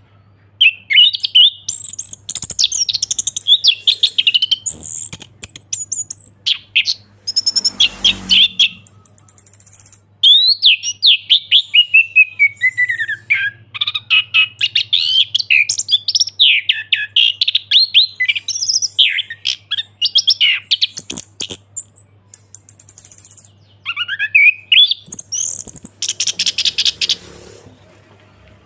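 Orange-headed thrush singing a long, varied song of rapid whistled and chattering phrases with hardly a pause, over a low steady hum.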